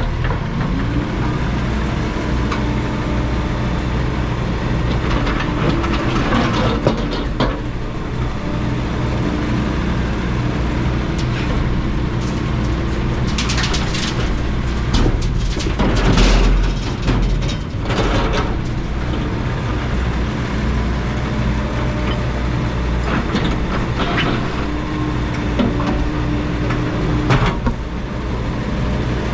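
Heavy-equipment diesel engine running steadily, with scattered clanks and knocks of machine work; the heaviest thump comes about halfway through.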